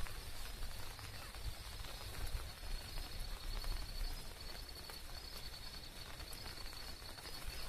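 Light rain pattering outdoors, many small scattered drop ticks over a soft hiss, with a steady high-pitched drone and low wind rumble on the microphone.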